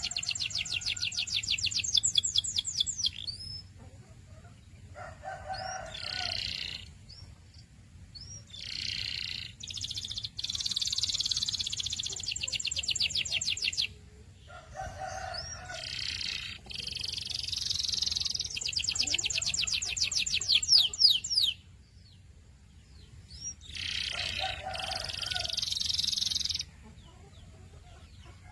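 Canary singing: phrases of fast rolling trills of rapidly repeated high notes, the longest lasting a few seconds, broken by short pauses.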